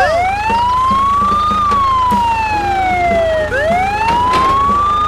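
Ambulance siren wailing: a slow rising and falling tone that climbs for about a second and a half, slides down for about two seconds, then climbs again, over a low steady rumble.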